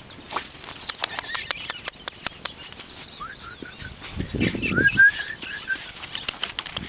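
A bird chirping in two runs of short, quickly repeated rising notes, a second and a half apart. Before them come scattered light clicks, and a brief low rumble rises under the second run.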